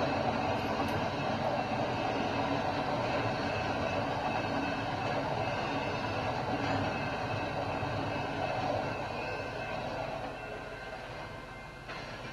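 Intermodal freight train rolling past, a steady rumble of wheels on rail that fades over the last couple of seconds.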